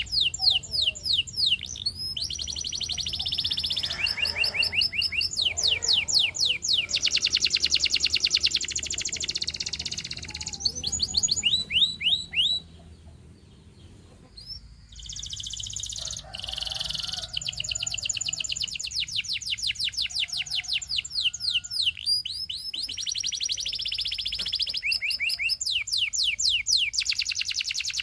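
Domestic canary singing: fast trills of repeated falling notes alternating with buzzy, rolling phrases, with a brief pause about halfway through before the song resumes.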